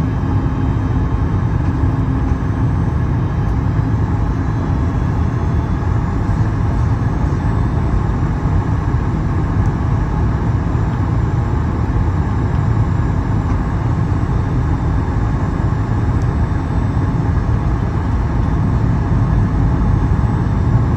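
Steady cabin noise inside a Boeing 737 MAX 8 airliner: an even, loud roar of engines and airflow, heaviest in the low end, with no sudden events.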